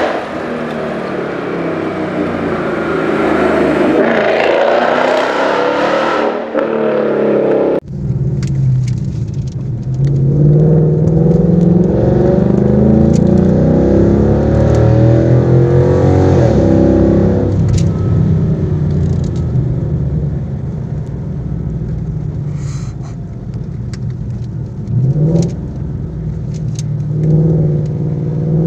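Ford Mustang GT's V8 through a Borla aftermarket exhaust, revving and accelerating with the pitch rising and falling. There is an abrupt cut about eight seconds in; after that the pitch climbs under acceleration for several seconds, then settles into a steadier, lower run.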